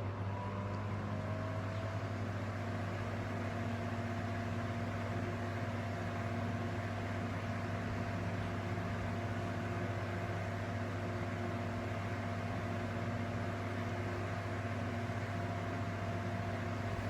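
Four ceiling fans running together on their low setting: a steady electric motor hum under an even whir, with a faint whine that rises slightly and settles about a second in.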